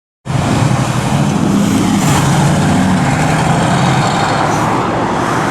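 A motor vehicle engine running steadily, with a low, even note under a loud, rough noise. The sound starts suddenly just after the beginning.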